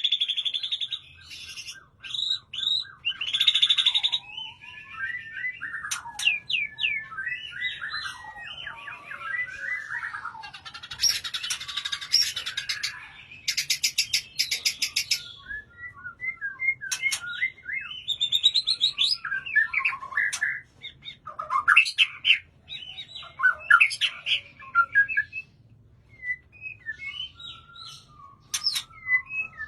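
White-rumped shama singing a long, varied song of loud whistles, pitch glides and rapid trills, phrase after phrase with short pauses between them.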